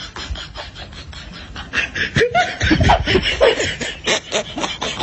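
People laughing in short, choppy bursts, starting about two seconds in.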